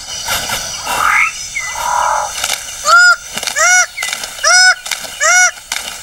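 A bird calling: harsh, rasping calls, then four clear arched notes, each rising and falling, repeated a little under a second apart. The sound cuts off suddenly near the end.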